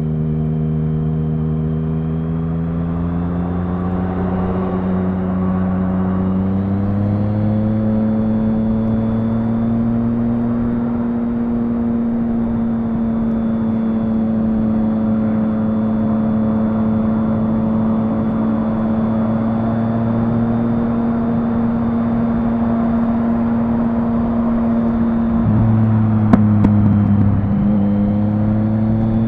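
Triumph Speed Triple 1050's three-cylinder engine running under riding load, its pitch climbing for the first several seconds and then holding steady. Around 26 seconds in the revs drop briefly with a few sharp cracks, then climb again near the end.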